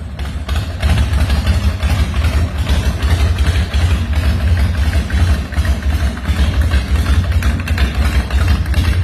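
Custom Covington hardtail chopper's engine idling loudly with a lumpy, pulsing beat.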